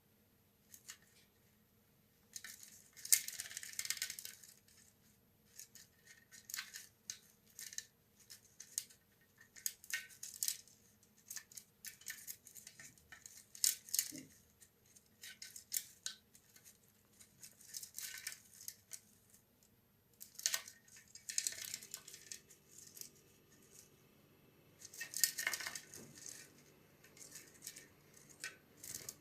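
A pet budgerigar moving about and fluttering, making irregular rattling, clicking and rustling noises, with a few longer bursts of flapping.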